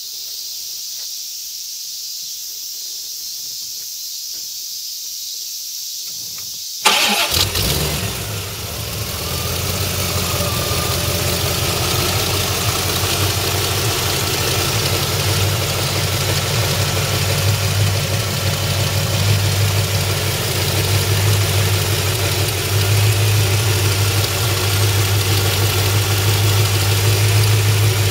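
A 1989 Corvette's L98 5.7-litre Tuned Port Injection V8 starts suddenly about seven seconds in, after a steady hiss, and settles straight into a steady idle.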